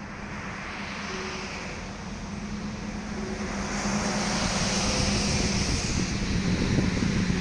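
A vehicle approaching and passing close by: a steady hum under a rushing noise that grows steadily louder.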